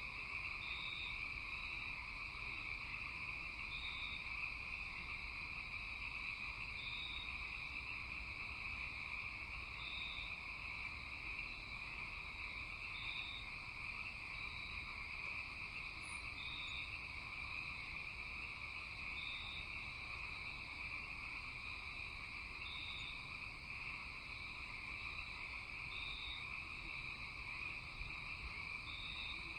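Night chorus of insects and frogs: a steady high-pitched drone with a lower steady trill beneath it, and a short, higher chirp repeating about every three seconds.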